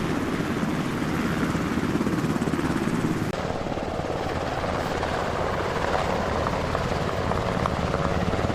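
Helicopter running steadily with a fast, even beat from its rotor. The sound changes abruptly about three seconds in.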